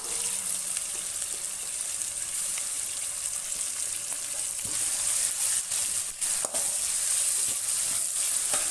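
Sliced onions and chopped tomato sizzling in hot oil in a metal kadai, stirred with a steel spatula, which clicks against the pan a few times about five to six and a half seconds in.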